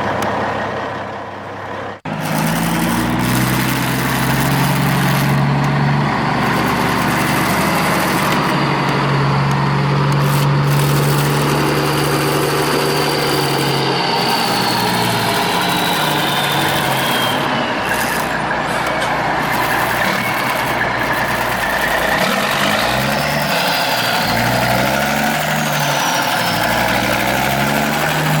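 Truck engine sound, the kind an RC truck's sound module plays, running and revving with its pitch stepping up and down. It drops out for a moment about two seconds in, and a high whine slides down in pitch about halfway through.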